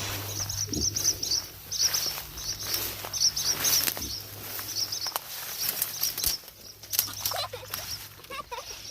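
Small birds chirping in quick clusters of short, high notes, with scattered clicks and a steady low hum underneath. Lower calls join in near the end.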